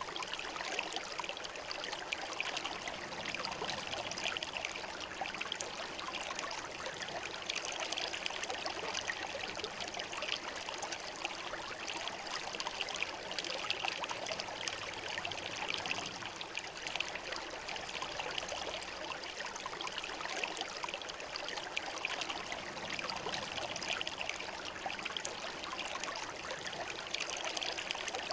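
Shallow river flowing over smooth stones: a steady rush of running water with fine trickling, even throughout.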